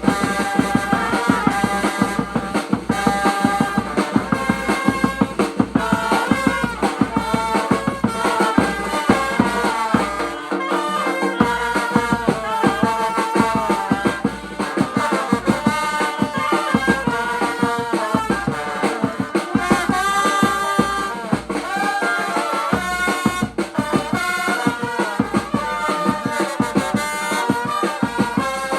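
Vietnamese funeral brass band ('nhạc tây') playing a melody on brass horns over a steady drum beat.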